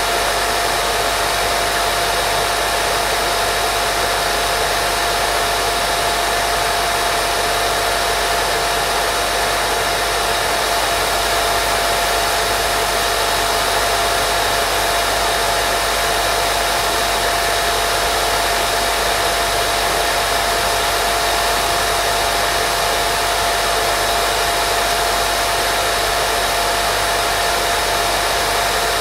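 Steady white-noise hiss with a thin, constant tone running through it, unchanging throughout.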